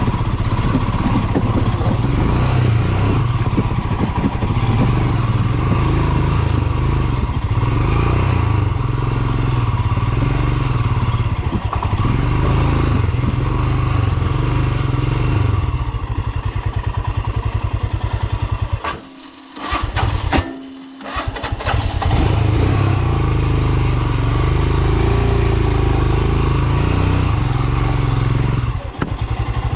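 Royal Enfield Himalayan's 411 cc single-cylinder engine running steadily. Just past the middle the sound drops out twice, for about a second each time, with a brief burst between, then comes back at full strength.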